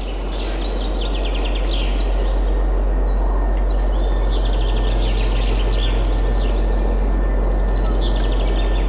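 Steady wind noise with small songbirds chirping in quick trills again and again.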